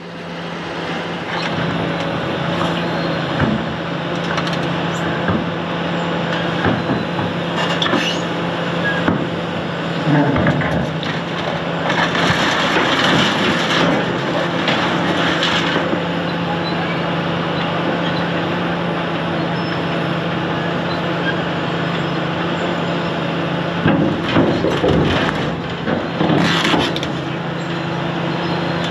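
Building demolition: a heavy demolition machine's diesel engine running steadily, with irregular crunching and cracking as concrete and debris are broken and crushed, loudest about twelve to sixteen seconds in and again around twenty-four to twenty-seven seconds.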